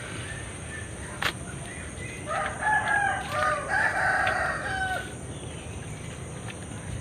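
A rooster crowing once, a drawn-out cock-a-doodle-doo of about three seconds starting about two seconds in. A single sharp click sounds about a second in.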